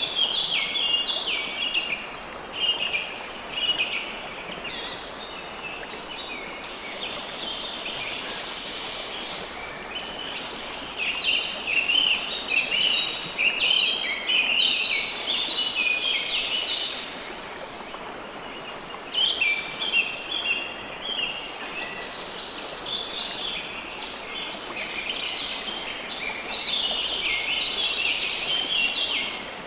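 Many songbirds singing at once, a dense chorus of short overlapping chirps and trills that swells and ebbs, over a steady hiss of running water.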